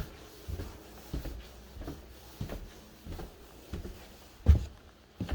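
Footsteps on an indoor floor at a steady walking pace, a dull thud about every two-thirds of a second, with one heavier thud about four and a half seconds in.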